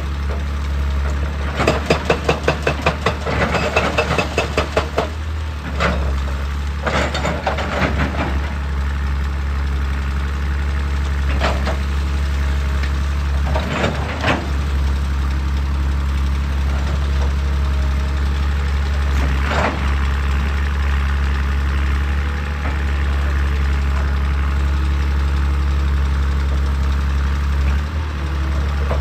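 Hydraulic excavator's diesel engine running steadily. Two bursts of rapid knocking come in the first eight seconds, then a few single knocks later.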